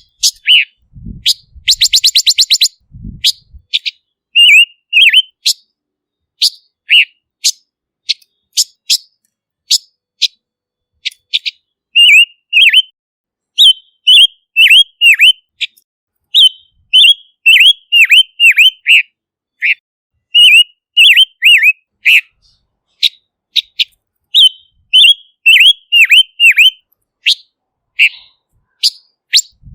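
Silver-eared mesia calling and singing: fast, high rattling trills and quick runs of short, down-slurred whistled notes, repeated in clusters.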